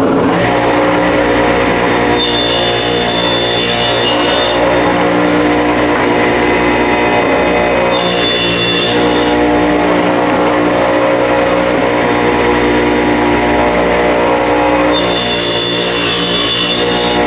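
Electric power saw running steadily while it rips cedar fence pickets into 1.5-inch strips, the blade biting into the wood three times: about two seconds in, around eight seconds, and near the end.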